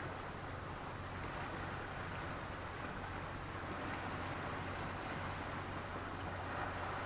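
Mediterranean sea waves washing steadily onto a beach of black stones and sand, a continuous even wash of surf with no single breaking wave standing out.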